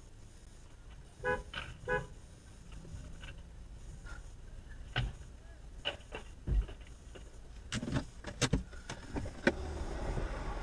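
Two short car horn toots about a second in. Scattered sharp clicks and knocks follow, and a steady hum of car and road noise grows louder near the end.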